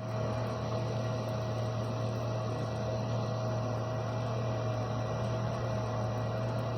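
A steady mechanical hum with a constant higher whine over it, unchanging throughout.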